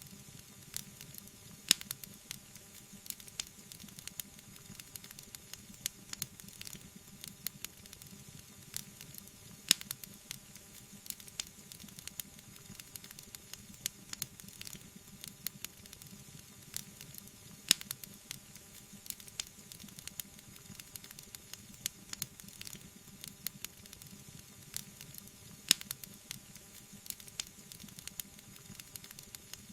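Wood fire in a fireplace crackling, with a steady low hiss and frequent small snaps. A few louder pops come about every eight seconds.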